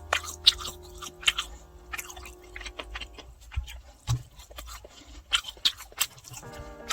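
A person chewing and biting food with irregular crisp crunches and smacks. Quiet background music plays under it, fading out around the middle and returning near the end.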